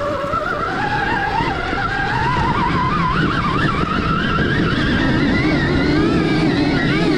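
Stark Varg EX electric dirt bike motor whining under throttle on a climb, its pitch wavering and rising gradually over a dense rushing noise underneath.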